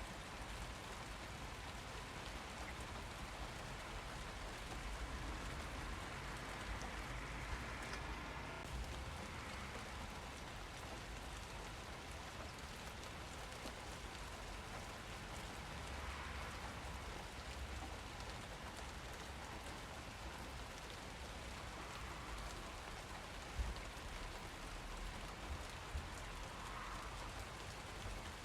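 Steady rain falling and pattering on surfaces, with a few individual drops ticking here and there.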